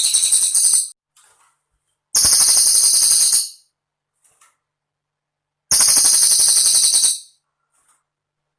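Cililin bird singing: short bursts of a very high, rapid, jingling trill, about a second and a half each, separated by silent pauses. Three bursts are heard, the first ending about a second in.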